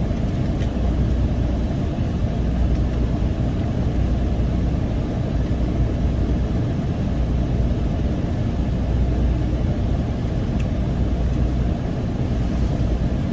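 Steady low rumble of a motor vehicle, engine and road noise, holding level throughout, with one faint tick about ten seconds in.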